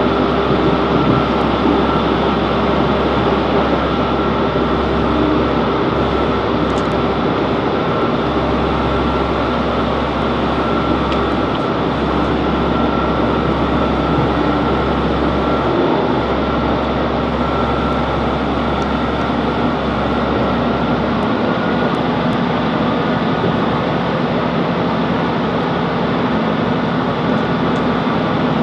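Class 165 Networker Turbo diesel multiple unit under way, heard from on board: a steady drone of the underfloor diesel engine over the rumble of wheels on the rails. The low rumble changes about 21 seconds in.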